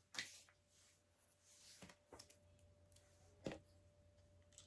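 Near silence with a few faint, short clicks of plastic LEGO pieces being handled; the sharpest click comes about three and a half seconds in.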